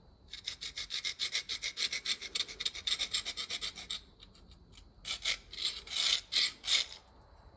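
Hand tool scraping back and forth on a workpiece: a fast run of short rasping strokes, about eight a second, for nearly four seconds, then after a brief pause a handful of slower, louder strokes.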